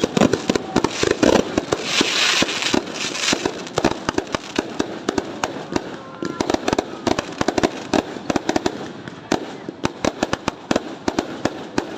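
Fireworks going off without pause: many rapid, irregular bangs and pops, with a burst of crackling hiss about two seconds in.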